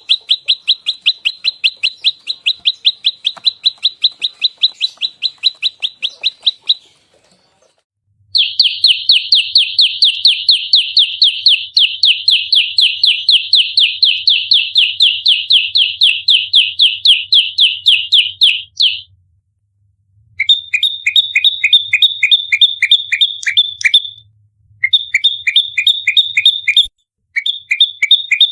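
Prenjak lumut singing its rapid-fire fighting song ('nembak rapat'): long unbroken runs of sharp, high, repeated notes, about eight a second, broken by short pauses. After about twenty seconds the notes turn two-toned and come in shorter runs.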